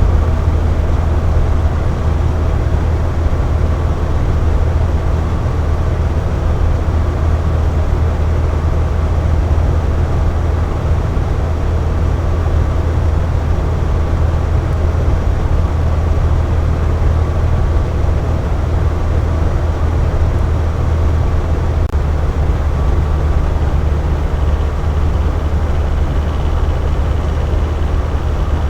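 Electric box fan running steadily: an even rush of air over a strong low hum.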